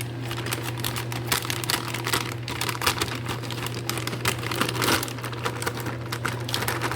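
Plastic bag of frozen Birds Eye beef lo mein being crinkled and rustled as it is handled and opened, with a steady low hum underneath.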